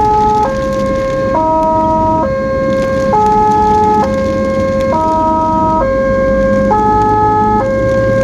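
Ambulance siren sounding a hi-lo pattern, stepping between a low note and a higher note about once a second, over low engine and road rumble.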